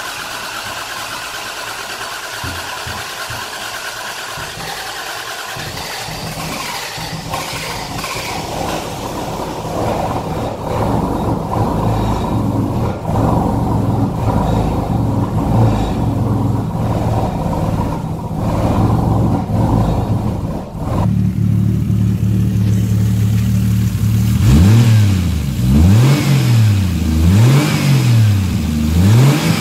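Toyota Supra MkIII's 3.0-litre twin-cam 24-valve turbocharged straight-six (7M-GTE) running just after a head gasket replacement, idling while the valve lifters fill with oil and adjust themselves, and growing louder. In the last few seconds the throttle is blipped by hand: several quick revs, each rising and falling.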